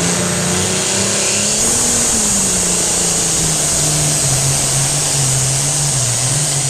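International Harvester 1066 tractor engine running hard under load during a tractor pull. Its pitch rises briefly about two seconds in, then drops and holds steady.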